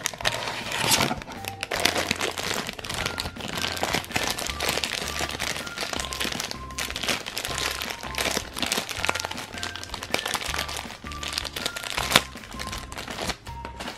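Shiny black blind-bag wrapper crinkling and crackling as it is torn open and a small figure is pulled out, over background music with a repeating bass line.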